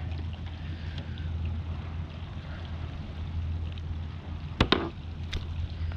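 Steady low wind rumble on the microphone over light water chop against a kayak hull. A few sharp clicks and knocks come about four and a half seconds in.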